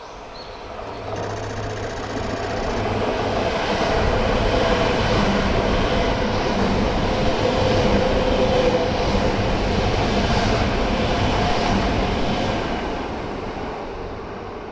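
Yamagata Shinkansen E3 series train passing by. The sound builds over about four seconds, stays loud for about eight, then fades away.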